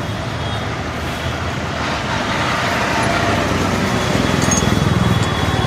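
Motor vehicle engine running with road traffic noise, a steady rumble that swells louder about four seconds in.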